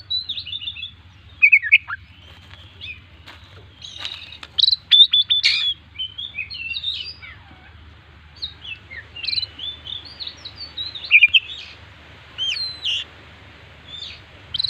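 Oriental magpie-robin (kacer) singing a long, varied song of quick whistled and sharp chattering notes, packed with phrases mimicked from other birds. The loudest bursts come about four to five seconds in and again around eleven seconds.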